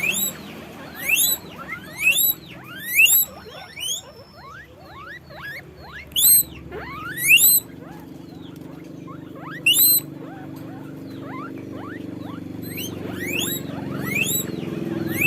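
Guinea pig squeaking: repeated short, rising whistle-like squeals in bouts, about one a second. There is a pause about four seconds in and another after ten seconds.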